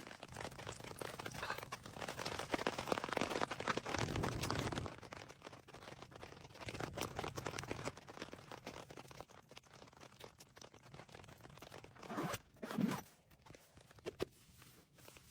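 Rustling and crinkling of handled material, a dense crackle for the first few seconds, then quieter, with two short louder bumps about twelve seconds in.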